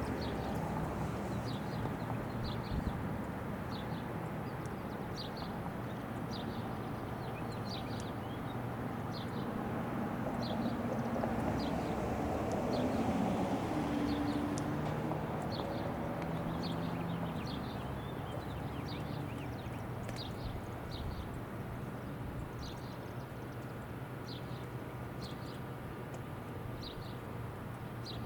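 Outdoor background rumble, with a short high chirp repeating about once a second throughout; the rumble swells briefly near the middle.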